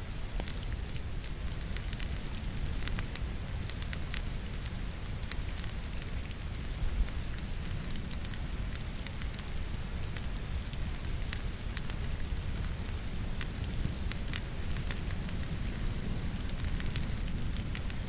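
Wood logs burning in a fireplace, crackling and popping at scattered intervals over a steady sound of rain; one louder pop comes about seven seconds in.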